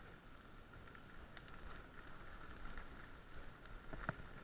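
Faint rolling noise of a bicycle on a rough track, with wind rumble and a steady light whir, and one sharp click about four seconds in.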